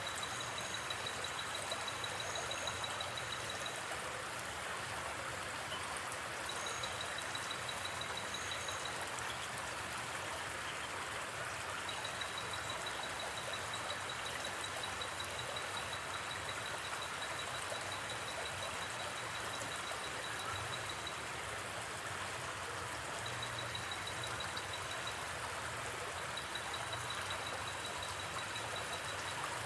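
River water flowing steadily, an even rushing babble. A high, rapid insect trill comes and goes over it in stretches, with a few faint higher chirps.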